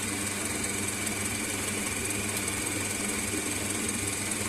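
Electric kitchen mixer running steadily with a constant motor hum, working fat into flour to the breadcrumb stage of shortcrust pastry.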